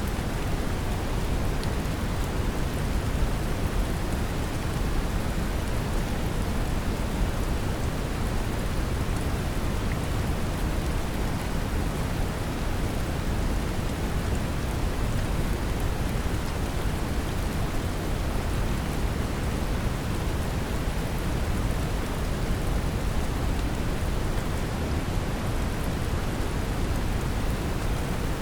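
Steady brown noise, a deep even rumbling hiss, blended with a constant patter of gentle rain with faint scattered drop ticks.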